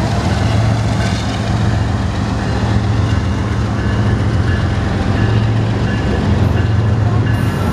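BNSF freight train pulling out. Its diesel locomotives pass with a steady low engine drone, then autorack cars roll by with clattering wheels.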